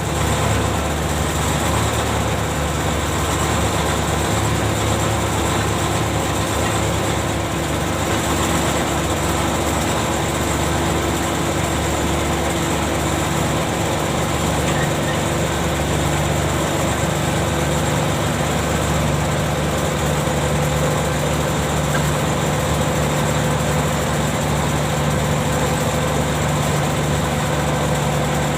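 Ship's machinery running steadily: an unchanging engine drone with several steady tones.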